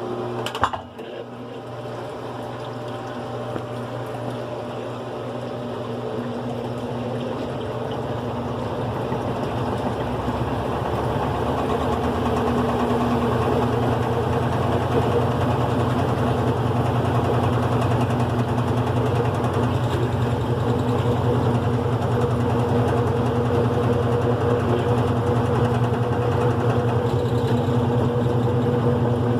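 GE Profile top-load washing machine running on its single-speed motor: a click about a second in, then a steady mechanical hum that grows louder over the first dozen seconds and then holds.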